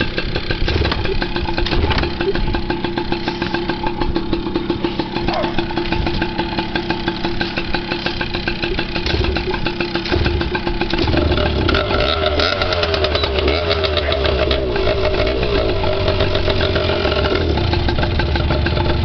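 Dirt bike engine idling unevenly on choke. About eleven seconds in it grows deeper and fuller, its pitch sliding up and down.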